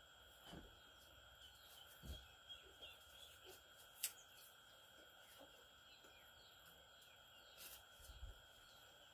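Near silence: faint outdoor background with a few steady high tones, scattered soft ticks and one sharper click about four seconds in.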